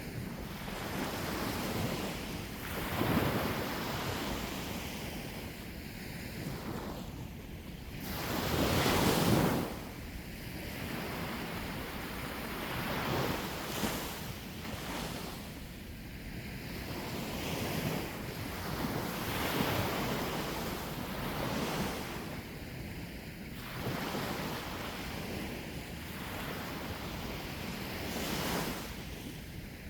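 Sea waves washing onto the shore, swelling and ebbing every few seconds, the biggest about a third of the way through, with wind buffeting the microphone.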